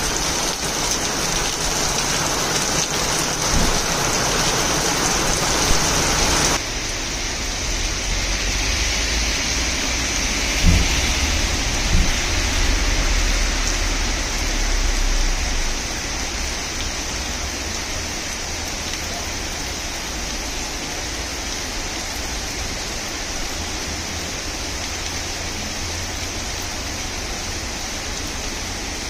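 Steady rain falling on a wet paved street, an even hiss whose character changes abruptly about six seconds in. Partway through there is a low rumble with a couple of dull thumps.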